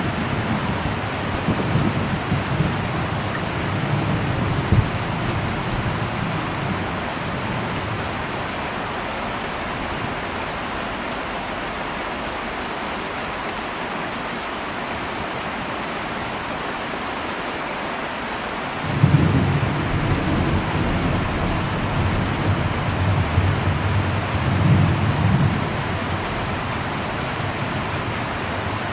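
Heavy rain falling on an old metal roof, a steady dense hiss throughout. Rolling thunder rumbles under it for the first few seconds and fades. A new peal of thunder breaks suddenly about nineteen seconds in and rumbles on for several seconds.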